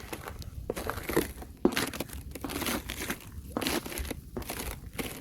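Fresh thin ice crunching and breaking in a quick, irregular series of crunches, about one or two a second.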